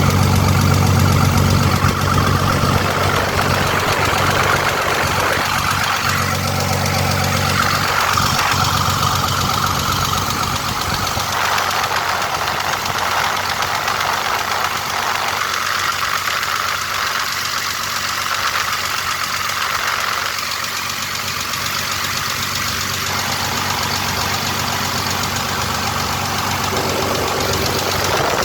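Freshly overhauled Cummins 6BT5.9 inline-six diesel engine running steadily. A deep low rumble is strongest for the first ten seconds or so, after which the sound turns thinner and more hissing.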